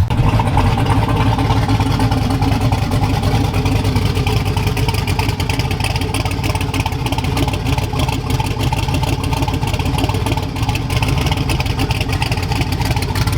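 V8 car engine running steadily on the move.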